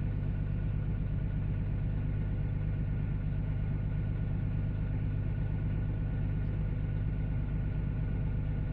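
Tractor engine running steadily at a constant speed, a deep even hum with no revving.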